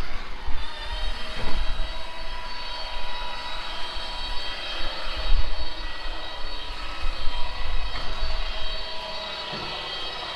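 Strong wind gusting and buffeting the microphone during rainfall, a low rumble that swells and drops, with a steady high whine of several held tones underneath.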